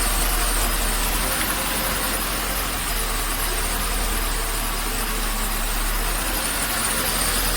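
Mercedes-Benz W124 E320's straight-six engine idling steadily.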